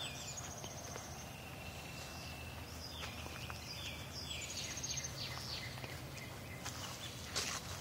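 Small birds chirping, with quick descending notes and fast trills, over a steady low hum. A brief knock sounds near the end.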